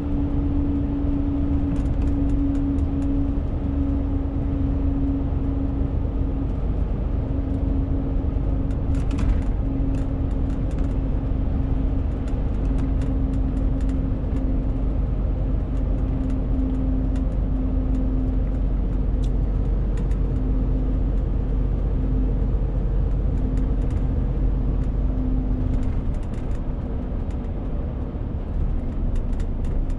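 Renault T520 truck's six-cylinder diesel engine running steadily on the road while hauling a 40-tonne load, a constant drone that drifts slightly lower in pitch, with faint scattered clicks and rattles over it.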